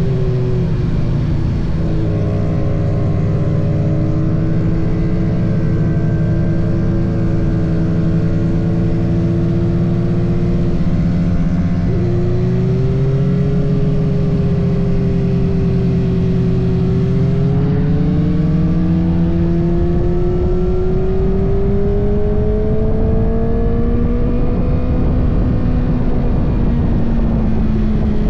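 Kawasaki ZX-6R's 636 cc inline-four engine pulling under load while riding. The engine pitch holds steady, dips and picks up again about twelve seconds in, then rises slowly as the revs build. Wind rush on the microphone grows in the second half.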